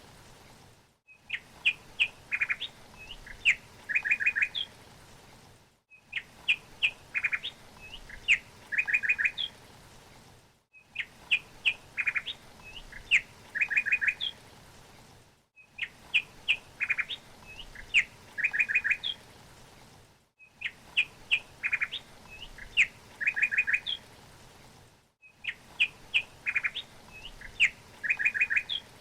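A small bird chirping in short upward notes and quick trills, over a faint steady hiss. The same phrase of chirps repeats about every five seconds, each repeat cut off by a brief silent gap, as in a looped recording.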